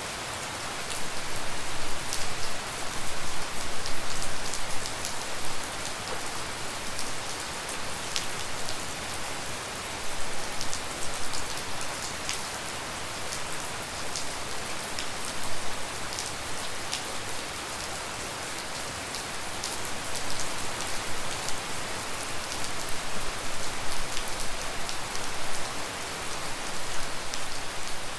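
Steady tropical rain, with many separate drops ticking sharply on a nearby surface. It falls harder for a few seconds about a second in, and again in the last third.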